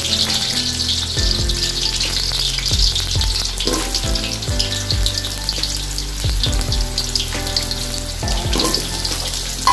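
Potato and sweet pumpkin pieces sizzling steadily as they fry in hot oil with a little ghee.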